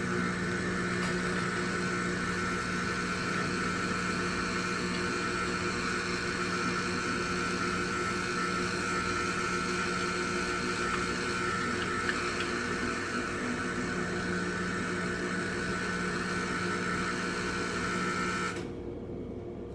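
Jura Z10 automatic coffee machine running as it makes a drink: a steady mechanical whir and hum that cuts off suddenly near the end.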